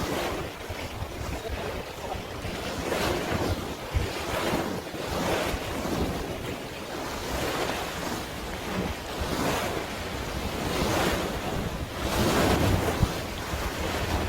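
Waves washing in repeated surges every second or two, with wind buffeting the microphone and a short knock about four seconds in.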